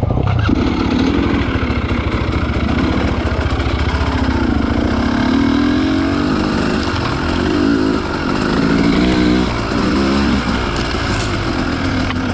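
Two-stroke enduro motorcycle, a KOVI 300 2T, revving up and down as it is ridden. The engine sound starts suddenly, and its pitch rises and falls repeatedly throughout.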